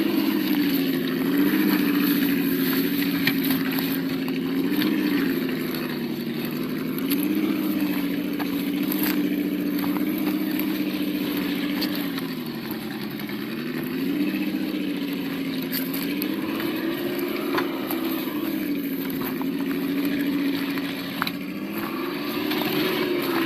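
Simulated engine sound from the sound module of a 1:8 Absima Yucatan RC crawler, running steadily with its pitch rising and falling every few seconds as the throttle changes. Scattered light clicks run through it.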